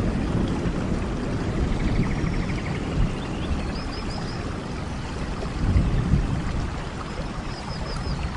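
Steady rain and running water with low rumbling swells, and a faint high chirping call that recurs a few times.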